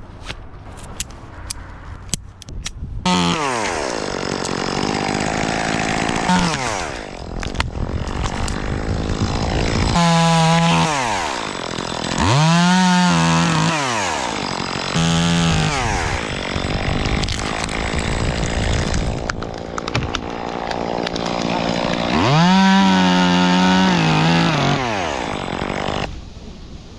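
Gas chainsaw cutting limbs. It comes in suddenly about three seconds in, then revs up and down between idle and full throttle, with several long high-pitched cuts, and stops about a second before the end. A few faint clicks come before it.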